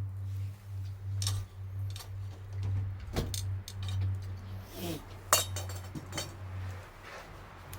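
Tableware clinking and knocking a few times, the sharpest clink about five seconds in, over a steady low hum.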